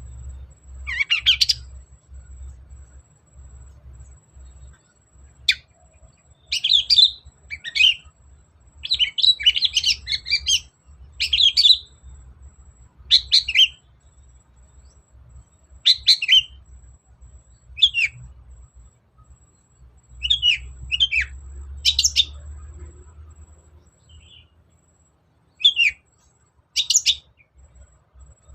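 Long-tailed shrike (cendet) singing in short, loud bursts of rapid high chirps, each under a second, repeated every second or two with brief pauses. A faint low rumble runs underneath.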